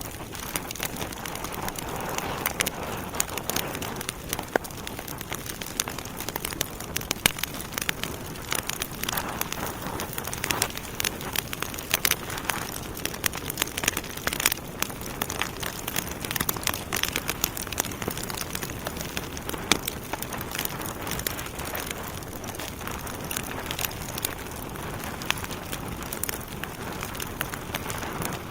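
Wood fire in a fireplace, burning logs crackling and popping with many sharp, irregular snaps over a steady hiss.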